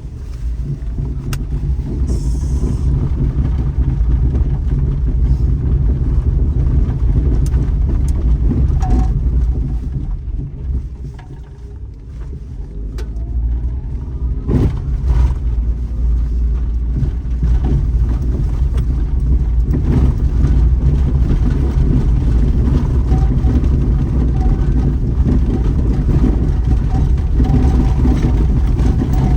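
Daihatsu Terios Kid driving on a forest road: a steady low rumble of engine and road noise that eases off about ten seconds in, then builds back up, with scattered light ticks.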